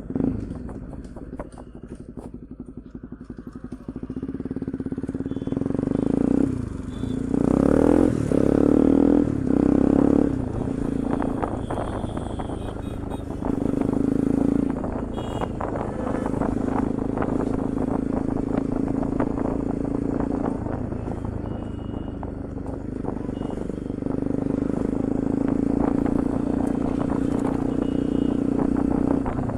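Bajaj Pulsar NS200's single-cylinder engine running through an aftermarket Akrapovic exhaust while being ridden. It revs up and down hard several times between about six and ten seconds in, then settles into a steadier note at riding speed.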